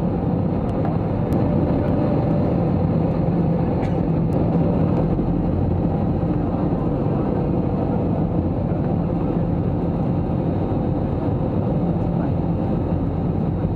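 Steady drone of an Airbus A321-200's engines and airflow heard inside the passenger cabin, an even, low noise.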